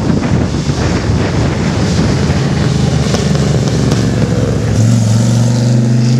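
A classic sports coupe's engine pulling hard as the car accelerates past; about five seconds in the sound settles into a steady, even engine note as the car moves away.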